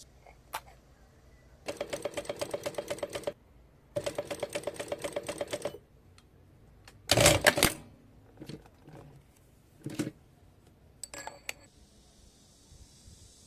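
Sewing machine stitching in two short runs of about a second and a half each, at a quick, even rhythm. A louder brief clatter and a few light knocks follow.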